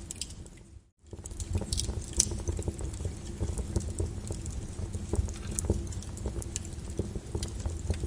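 Lava crackling and popping, with irregular sharp cracks over a low rumble. The sound drops out briefly about a second in and then comes back.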